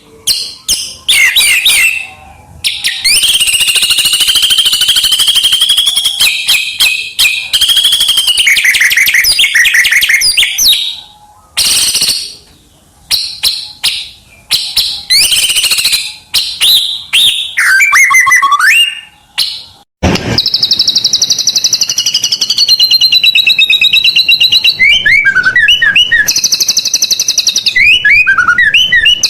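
White-rumped shama (murai batu) singing a loud, varied song: fast rising and falling whistled sweeps, rapid trills and long warbled phrases with short pauses between them. A single sharp click about two-thirds of the way through.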